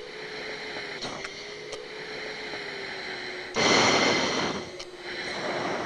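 Aircraft cockpit audio: a steady hum with a constant droning tone and hiss, a few faint clicks, and a loud burst of radio static lasting about a second, starting and stopping sharply about halfway through.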